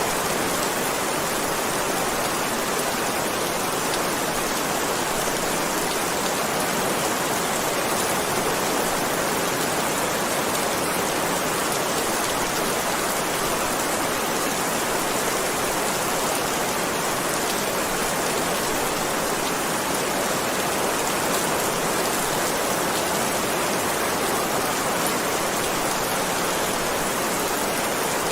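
Heavy rain falling steadily: a dense, even hiss of rain that holds constant without a break.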